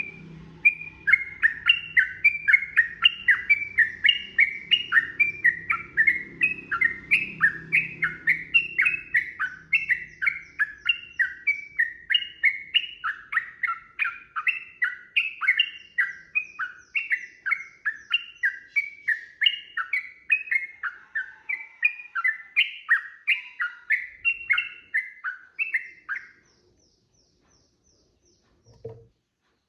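Yellow-vented bulbul singing a long, unbroken run of quick repeated phrases, about three a second, that stops about 26 seconds in. A short low knock follows near the end.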